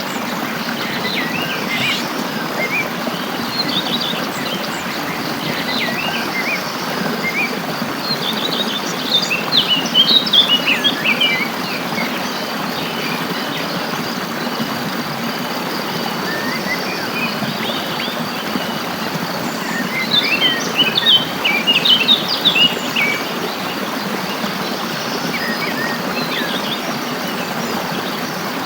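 Small birds chirping and singing over a steady rushing of water, with two louder runs of quick song, about ten seconds in and again past twenty seconds.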